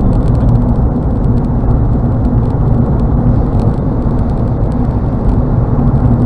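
Steady road and engine noise of a car cruising at highway speed, heard from inside the cabin: an even low rumble of tyres and engine with no change in level.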